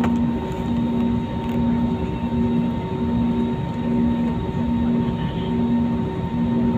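Jet airliner cabin noise: a steady rumble and hiss, with a low hum that swells and fades about once a second.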